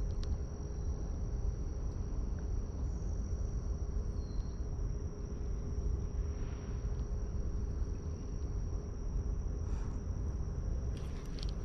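Insects trilling in one steady, unbroken high-pitched note, over a constant low rumble.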